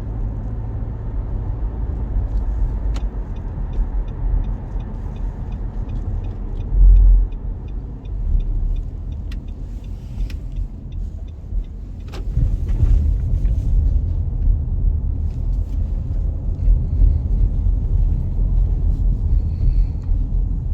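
Inside the cabin of a 2017 Nissan Rogue SV AWD while it is driving: steady low road and tyre rumble. A run of light, even ticks lasts about five seconds near the start. A heavy thump comes about seven seconds in, and the rumble grows louder from about twelve seconds in.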